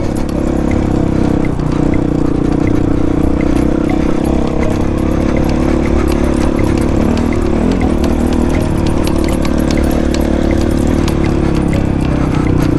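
Honda CRF450's single-cylinder four-stroke engine running steadily under load on a dirt bike, with frequent sharp clicks and clatter as the bike goes over rocks.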